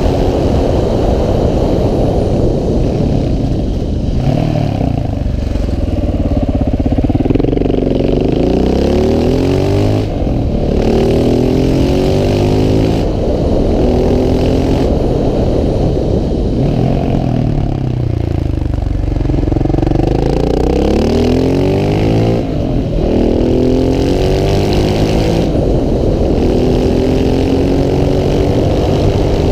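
KTM 690 SMC R's single-cylinder engine under way, revs climbing and falling again and again, with sudden drops in pitch about every few seconds as the throttle is cut or a gear is changed.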